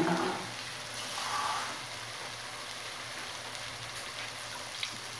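Onion, ginger-garlic paste, tomato paste and ground spices frying in oil in a pan: a steady soft sizzle, with a few faint crackles near the end.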